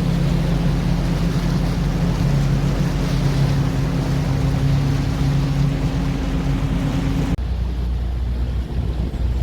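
A motor running steadily over a rushing noise, with a low hum. About seven seconds in the sound cuts suddenly to a deeper, duller rumble.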